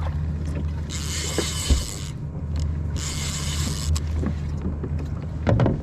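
Fishing reel working while a hooked fish is fought from a kayak: a mechanical ratcheting with two bursts of hiss, each about a second long, over a steady low hum. There is a short thump a little under two seconds in.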